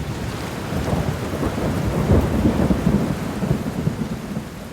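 Heavy rain with a low rumble of thunder, loudest about two seconds in and fading out near the end.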